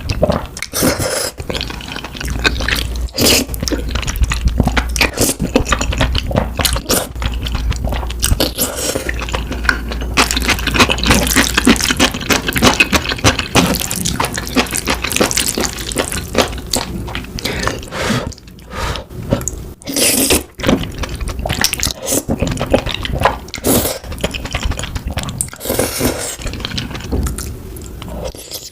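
Close-miked eating sounds of cheesy rose tteokbokki: wet, sticky chewing and slurping of chewy rice cakes in a creamy sauce, with a dense run of irregular smacks and clicks.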